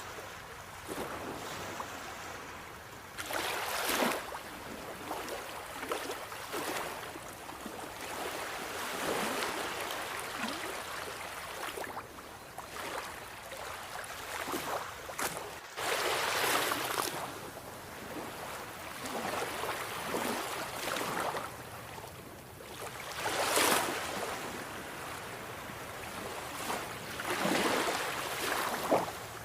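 Sea waves breaking in swells every few seconds, with a steady hiss of surf between them.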